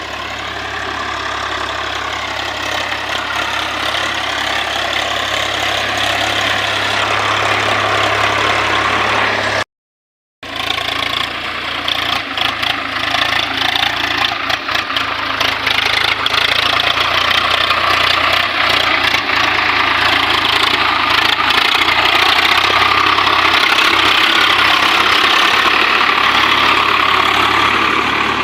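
Swaraj 744 FE tractor's three-cylinder diesel engine running under load, pulling a fully loaded trolley. The sound drops out for under a second about a third of the way through. After that it comes back with more clatter and slowly grows louder.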